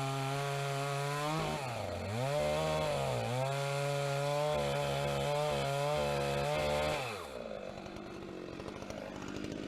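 Husqvarna 390 XP two-stroke chainsaw running at high speed while ripping a pine log lengthwise in a chainsaw mill, its pitch dipping twice as it bogs under load. About seven seconds in the engine note drops away and it goes quieter.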